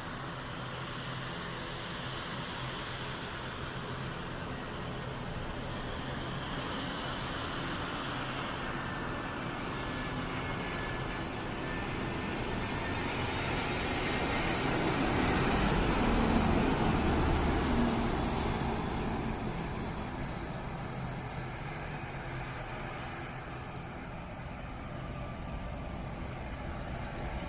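Airbus A319 airliner's jet engines passing on landing: a steady rush that grows to a loud peak about sixteen seconds in, with a thin high whine, then fades away.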